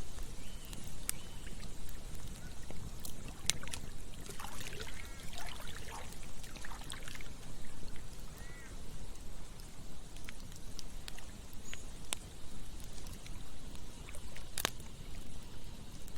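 Campfire crackling, with a few sharp pops, over a steady rush of trickling water. A cluster of short chirping calls comes in about four seconds in.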